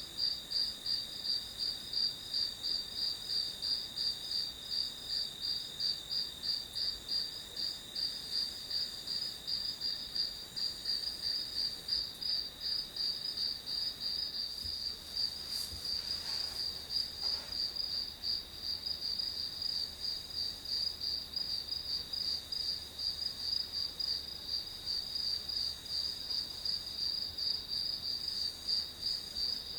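Crickets chirping in a continuous chorus: a high, even pulsing of about three chirps a second over a steady trill.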